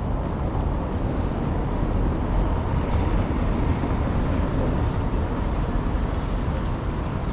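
Wind buffeting the microphone in a steady low rumble, over a general outdoor city noise.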